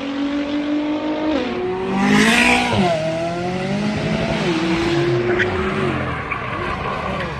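A car engine running under load, its pitch dropping and climbing several times as it revs and changes speed, with a brief screech about two seconds in.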